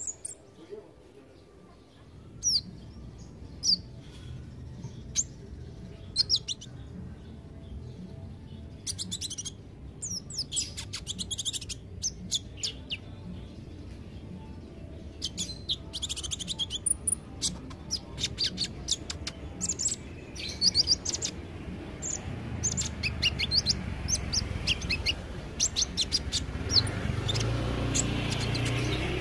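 Kolibri ninja sunbird singing: quick, high, sharp chirps and twittering notes, scattered at first, then coming in dense rapid runs from about halfway through. A low background hum grows louder near the end.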